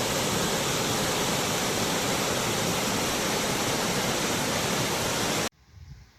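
Steady, loud rushing of falling water from a waterfall, cut off abruptly about five and a half seconds in; a much quieter background follows.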